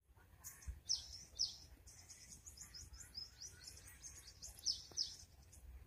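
Small birds chirping and twittering, with many quick high chirps and two pairs of louder downward-sweeping chirps, one pair about a second in and another near the end.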